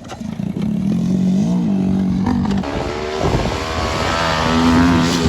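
Off-road engine revving hard under load on a hill climb, held in first gear high. The note wavers early on, then from about three seconds in it climbs higher and gets louder.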